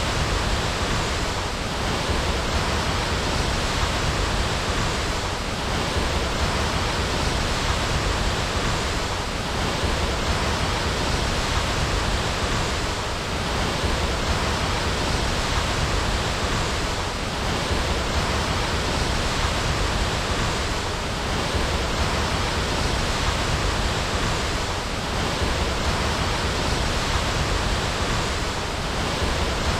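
Waterfall rushing steadily, an even wash of falling water with a faint swell about every four seconds.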